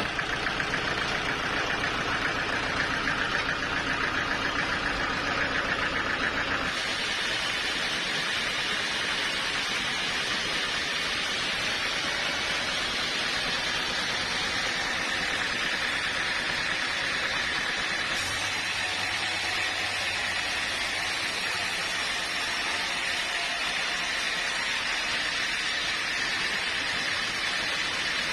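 Sawmill machinery running steadily, an engine at first. About a quarter of the way through the sound changes abruptly to a steady hiss, with a faint low hum coming in for a few seconds past the middle.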